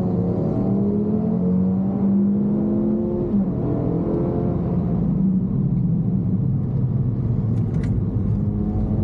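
Suzuki Swift Sport ZC32S's 1.6-litre four-cylinder engine heard from inside the cabin, revving up hard, dropping sharply at an upshift about three seconds in, then climbing again. Its pitch then falls as the car brakes for a corner, with a few sharp clicks near the end.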